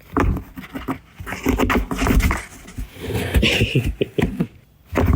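Cat biting and tearing at a cardboard box: rapid crunching and ripping of cardboard in bursts with brief pauses.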